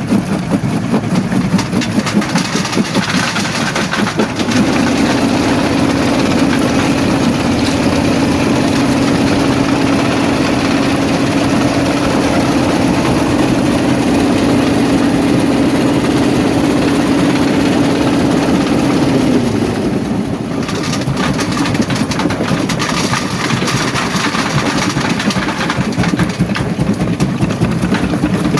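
Primary jaw crusher at a quarry running, a loud steady machinery noise. A steady low hum joins about four seconds in and stops about two-thirds of the way through.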